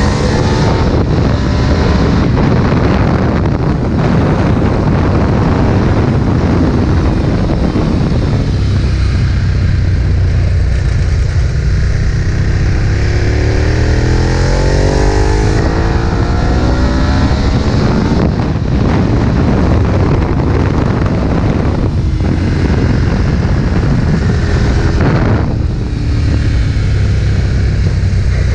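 Ducati 1098's 1099 cc L-twin engine running hard at racing speed, its pitch climbing under acceleration and dropping back several times with throttle and gear changes.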